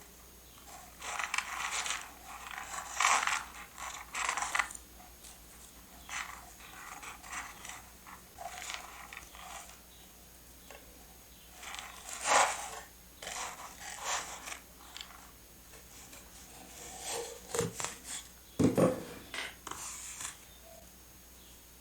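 Close-miked paper and stationery being handled on a desk: intermittent rustles, scrapes and small clicks, with a couple of soft knocks late on.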